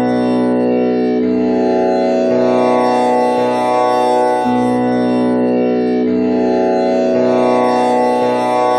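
Tanpura drone tuned to B, with the first string set to komal Ni. Its strings are plucked one after another about once a second in a cycle that repeats every five seconds or so, each note ringing on with many overtones into a continuous drone.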